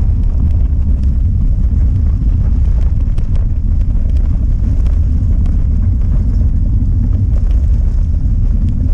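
Loud, steady low rumble of wind buffeting the microphone while riding a gravel bike, with faint scattered ticks over it.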